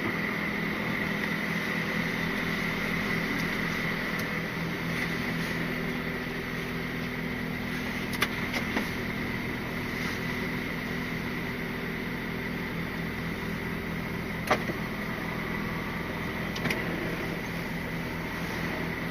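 Steady hum of the Scania R450 lorry's diesel engine running, heard from inside the cab, with a constant high whine from the cab's fan or electronics. A few sharp clicks sound through it, the clearest about halfway through.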